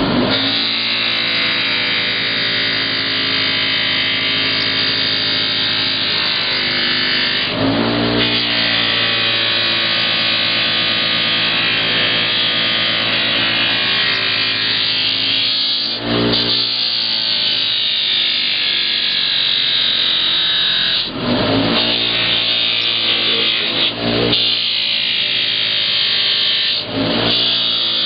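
Electric buffing wheel running steadily with a constant motor hum and a dense rasping hiss as an aluminum motorcycle engine part is pressed against it for polishing. The sound briefly changes about five times, near 8, 16, 21, 24 and 27 seconds in.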